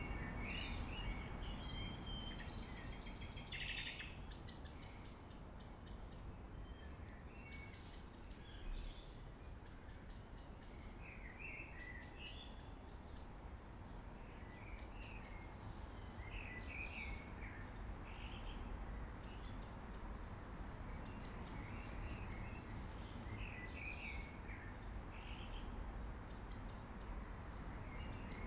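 Several songbirds chirping and trilling, busiest and loudest over the first few seconds, over a steady low background rumble.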